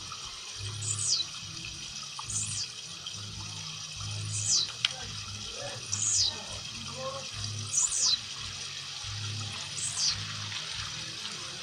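Young blue-black grassquit (tiziu) practising its song: six short, high calls, each a quick falling sweep, repeated every second and a half to two seconds over a steady background hiss.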